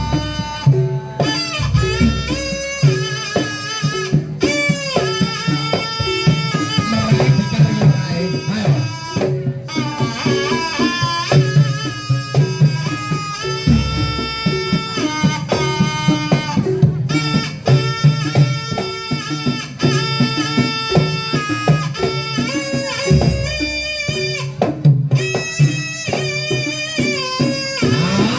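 Jaranan pegon music: a reedy wind instrument plays a wavering, ornamented melody over steady hand-drum rhythm.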